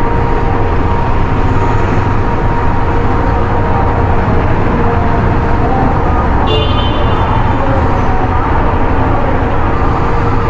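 Motorcycle riding in city traffic heard from a helmet-mounted camera: steady engine and wind rumble, with a short vehicle horn toot about six and a half seconds in.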